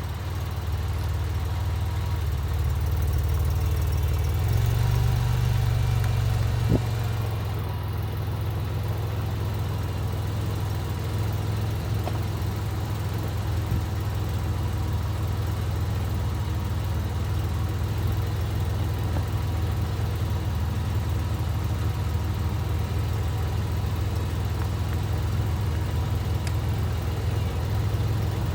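The 2001 Porsche 911 Carrera 4's flat-six engine running steadily at low revs. It rises slightly about four seconds in and settles back a few seconds later.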